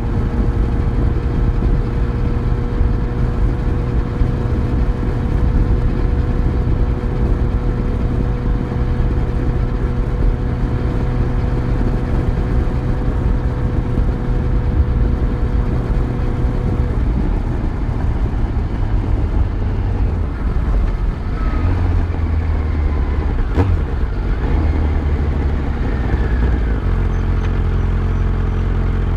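Yamaha FZ1's inline-four engine on the moving motorcycle, holding a steady pitch, then easing off a little past halfway as the bike slows, and settling into a low steady idle near the end. A single sharp click comes a few seconds before the idle.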